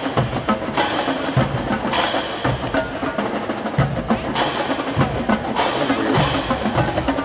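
Marching band percussion playing a drum cadence, with snare and drum hits and cymbal crashes a second or two apart.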